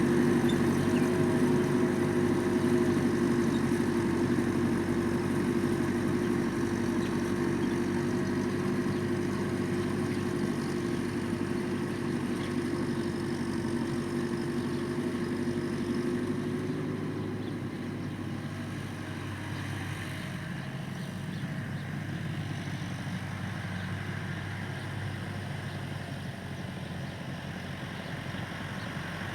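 Tractor engine running steadily, slowly getting quieter; its strongest hum drops away a little over halfway through.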